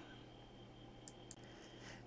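Near silence: faint room tone with a steady faint hum and a couple of tiny clicks about a second in.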